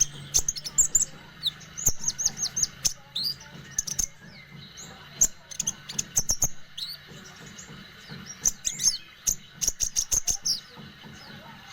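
Kingfisher (konin) calling: quick runs of high chirps, mixed with sharp clicks, over a low steady hum.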